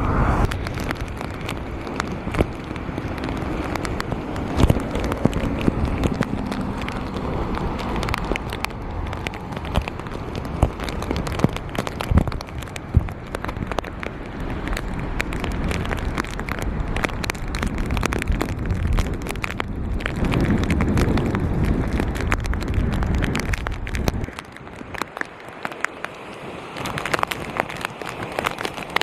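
Storm wind buffeting and rain pelting a camera sealed in a waterproof plastic bag: a heavy, muffled rumble of wind with a dense crackle of drops and plastic. The low rumble eases about three-quarters of the way through, then picks up again.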